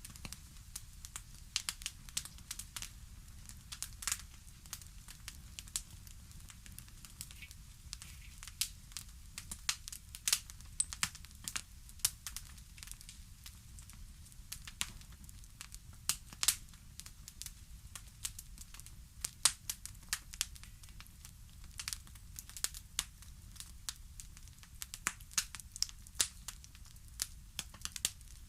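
Fire crackling: irregular sharp pops and snaps, scattered unevenly and sometimes several close together, over a steady low rumble.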